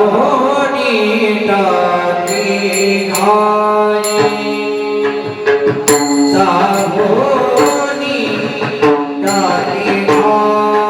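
Devotional bhajan singing: a singer's voice in long, wavering melodic lines over steady held accompanying tones, with pakhavaj drum strokes at irregular points.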